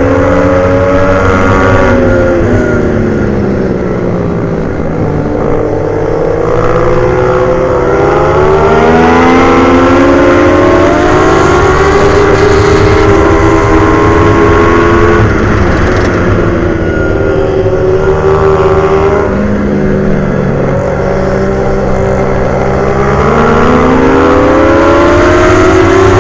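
Pit bike's single-cylinder four-stroke engine running hard around a circuit. Its pitch climbs for several seconds under acceleration and drops sharply on braking or a shift, about three times.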